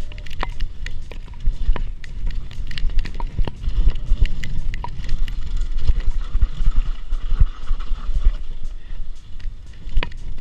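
Mountain bike descending a rough downhill trail: a steady rumble of wind on the microphone with frequent clattering knocks and rattles from the bike over rocks and roots.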